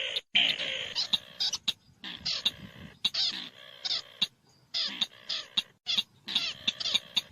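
Black-collared starling calling: a rapid series of harsh, chattering notes broken by sharp clicks, with short gaps between bursts.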